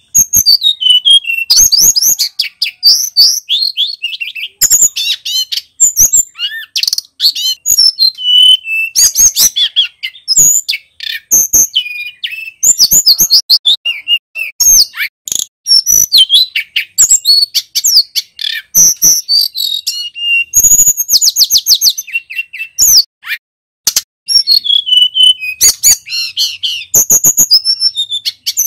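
Male tledekan gunung, a flycatcher, singing loudly and without let-up in fast high-pitched phrases of chirps, whistles and rattling trills, with only brief pauses between them.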